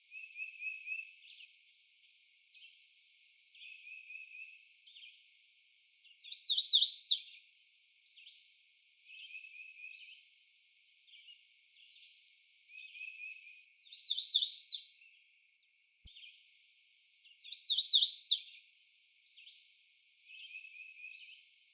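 A hooded warbler singing close by, three loud songs that each end in an emphatic upslurred phrase. Between them come softer repeated song phrases from a tufted titmouse and a red-eyed vireo.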